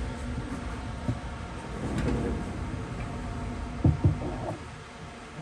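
Haas TL-1 CNC lathe spindle running with a steady hum that dies away over the last couple of seconds as it slows, with two sharp clunks about four seconds in.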